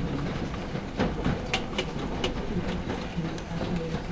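Large hailstones striking a metal mobile home and its porch: irregular sharp knocks, several a second at times, over a steady hiss of falling rain and hail.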